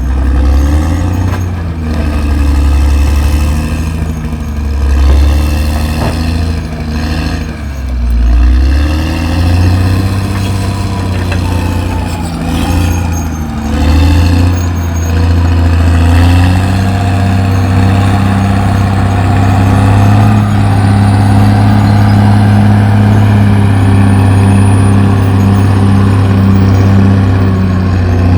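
Caterpillar D6R XL bulldozer's diesel engine under working load. Its revs sag and pick up again several times, then it holds a steady, loud pitch through the second half.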